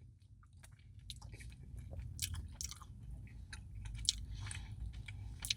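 Faint chewing with small wet mouth clicks, a man eating a mouthful of soft ice cream with brownie pieces.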